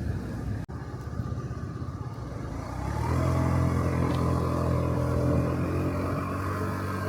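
Engine of a 50cc Honda Dio Cesta scooter with road noise; about three seconds in, a steady engine hum rises and holds as the scooter runs along.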